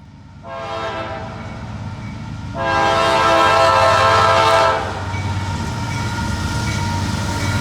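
Diesel locomotive's air horn sounding over the low rumble of the approaching train. The horn comes in softly, turns into a louder blast about two and a half seconds in that holds for about two seconds, then drops back to a quieter note.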